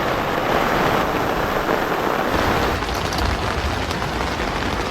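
Heavy rain pouring down in a steady hiss. A low rumble joins it about halfway through.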